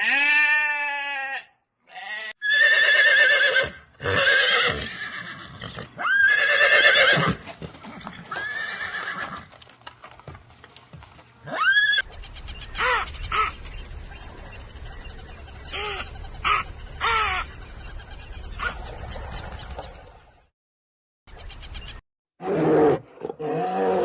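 Several different animal calls in succession, cut together: long, wavering, pitched calls in the first half, then short calls over a steady high whine and low rumble, ending abruptly.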